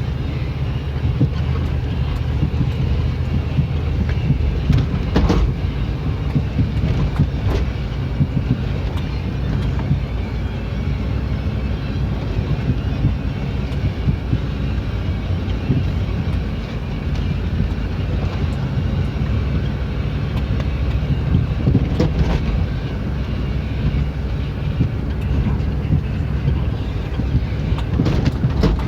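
Old Jeep's engine running as it drives through snow, with tyre and road noise and a couple of sharp knocks standing out. The engine has a ticking noise that the owner doubts is rod knock.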